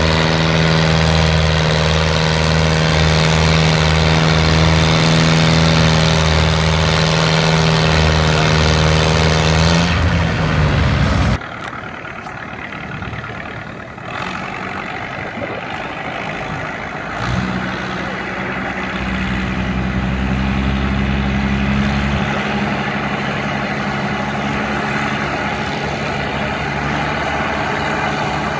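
Massey Ferguson tractor engine running hard at a steady pitch in a tractor pull, rising briefly before cutting off suddenly about eleven seconds in. After that, a quieter engine runs steadily and grows a little louder from about seventeen seconds.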